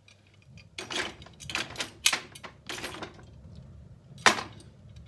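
A run of sharp clinks and clatters at the grate of an open coal fire as it is tended, the loudest about two seconds in and another just after four seconds. A low rumble of wind in the chimney runs underneath.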